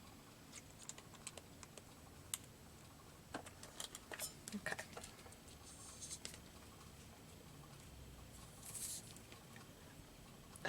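Faint scattered clicks and taps of a plastic glue bottle being handled and squeezed while its nozzle is clogged and the glue won't come out, with a couple of short airy hisses.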